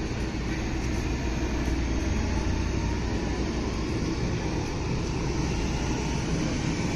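Stockholm commuter train (pendeltåg) running, a steady low rumble with an even rushing noise over it.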